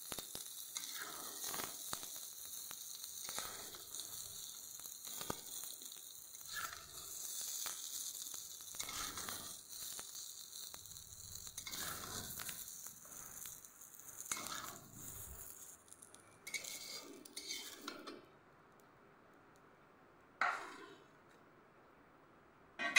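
Cauliflower florets sizzling in hot oil in a kadhai while a steel spatula scrapes the pan and lifts them out. The sizzling stops about two-thirds of the way through, followed by two short metal clinks near the end.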